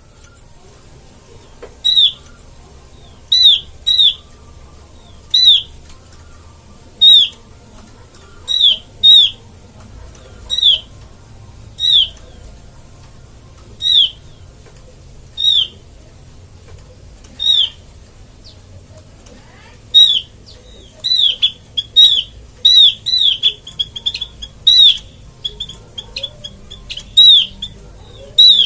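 Opior (an Indonesian white-eye) lure call: short, sharp high notes, each dropping in pitch, repeated about every second and a half. After about twenty seconds they come faster, with a quick stutter of notes.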